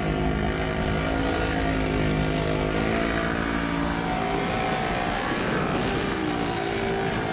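Off-road racing machine's engine running steadily, its pitch dipping and rising again about five seconds in.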